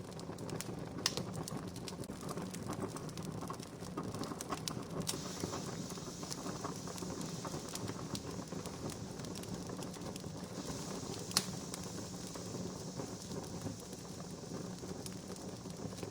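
Wood campfire crackling steadily over a soft hiss, with many small pops and two sharper snaps, one about a second in and one about two thirds of the way through.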